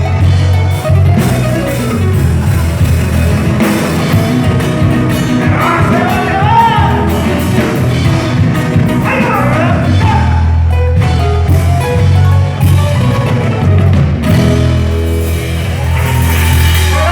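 Argentine folk group playing a gato cuyano, a Cuyo-region folk dance song, with a strong, steady bass line under sung phrases.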